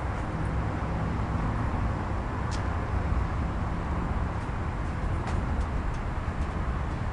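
Dodge Ram Daytona pickup's engine idling steadily through its Magnaflow exhaust, a low even rumble.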